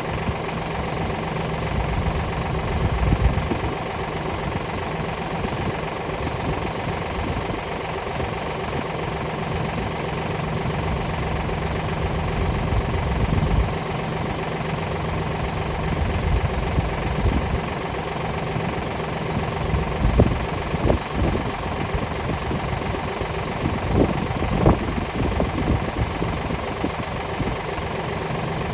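Kioti DK65 tractor's diesel engine idling steadily, with a few sharp knocks in the second half.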